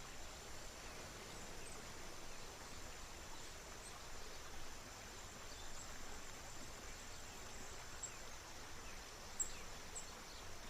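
River water running as a steady hiss, under a constant high insect drone, with a few short, high bird chirps; the sharpest chirp comes near the end.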